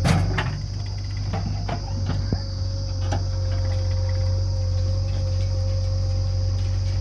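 Heavy diesel engine running steadily with a low rumble, from the machinery loading mud into the tractor trolleys, and a few knocks and clatters in the first three seconds. A steady high-pitched whine sits behind it throughout.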